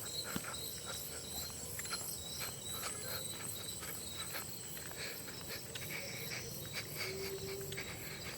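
Insects chirring in a steady, high-pitched drone, with a scatter of faint short ticks.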